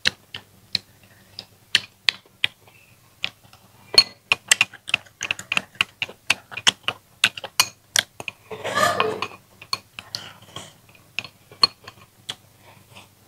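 Mouth sounds of a person eating chilli-braised goby fish and rice: irregular wet smacking and chewing clicks, with a longer breathy hiss about nine seconds in.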